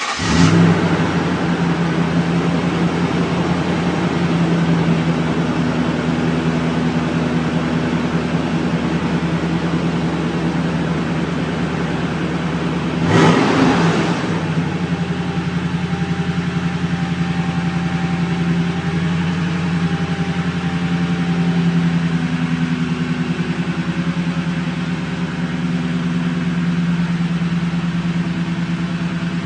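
2012 Toyota Tundra CrewMax V8 on its stock exhaust, firing up and settling into a steady idle, with one brief throttle blip about thirteen seconds in.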